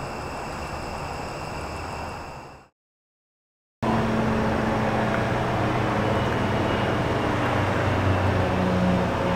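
A steady hum fades out, a second of dead silence follows, then steady outdoor vehicle noise, an idling engine and traffic, runs on evenly.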